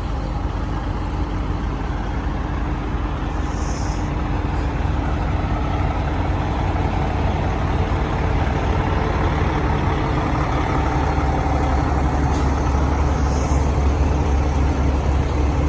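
Heavy diesel truck engine running steadily, its low rumble growing louder about ten seconds in, with two short high hisses, one early and one near the end.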